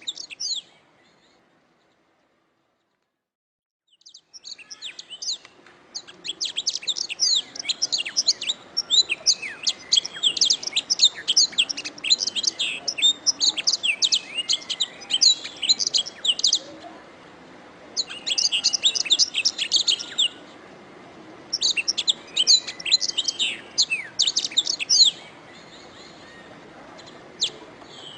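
Domestic canary singing: fast runs of high chirps and trills in long phrases broken by short pauses, with a few scattered chirps near the end. The song starts after a few seconds of dead silence near the start.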